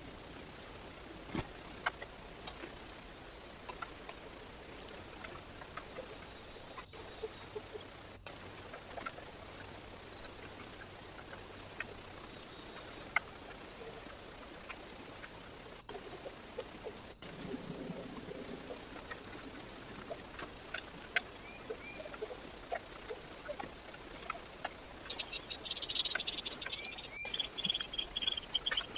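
Small birds at a feeder: scattered faint clicks and short chirps over a steady hiss, then a burst of high, quick chirping calls in the last few seconds.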